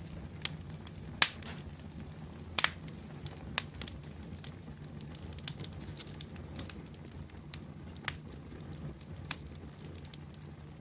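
Open fire burning with a steady low rumble of flame and irregular sharp crackles and pops, a handful of them, the loudest about a second in and a quick double pop a little later.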